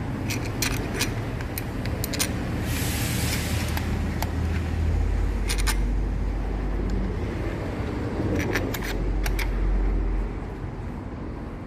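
Sharp metal clicks and taps from tools and starter-motor parts being handled while its housing bolts are fitted, over a steady low hum that swells in the middle. A short hiss comes about three seconds in.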